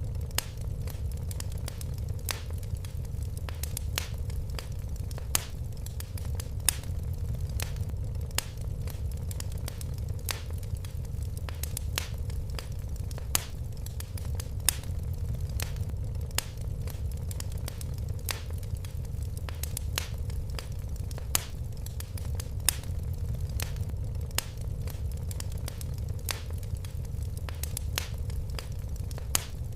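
Fireplace fire crackling, with irregular sharp pops and clicks, a few louder than the rest, over a steady low rumble of the flames.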